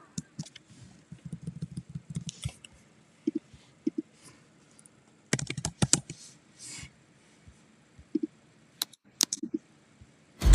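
Scattered light clicks and taps at an irregular pace, with small clusters about two, five and a half, and nine seconds in.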